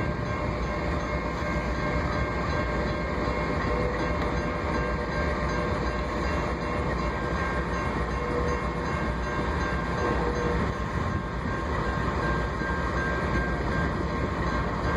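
A train running on the tracks: a steady rumble, with a few thin, faint tones held above it.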